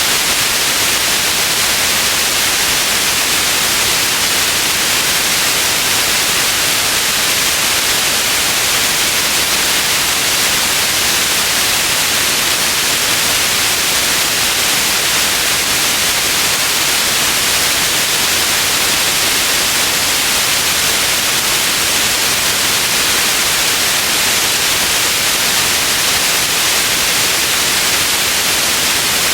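Steady, loud white noise: an even hiss, strongest in the upper range, with no changes.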